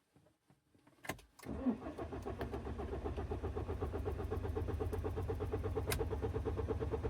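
2009 BMW 320d's four-cylinder diesel engine cranking on the starter motor without firing, its injectors unplugged for a relative compression test. A click about a second in, then steady cranking with an even beat from the compression strokes; the even compression shows no compression problem.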